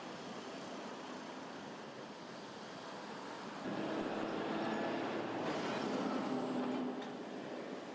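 A motor vehicle engine against a steady background hiss. The engine grows louder about four seconds in, with a steady low hum, and drops back about three seconds later.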